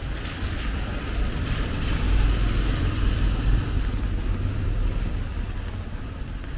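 A car passing on a rain-wet street: its tyre hiss on the wet road swells in the middle and fades, over a steady low rumble.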